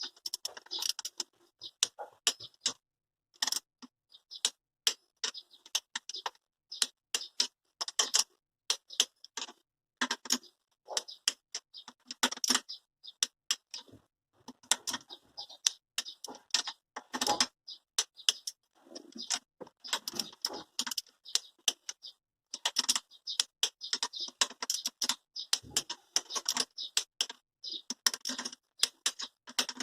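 Ratchet wrench clicking in quick, irregular runs with short pauses between them.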